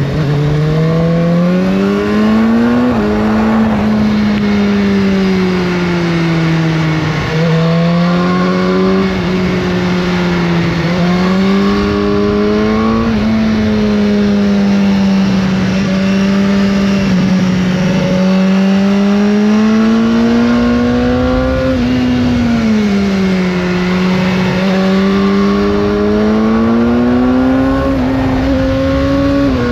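BMW S1000R inline-four engine running through its stock exhaust under riding load. The engine note climbs slowly and then drops sharply several times, as the revs rise and fall.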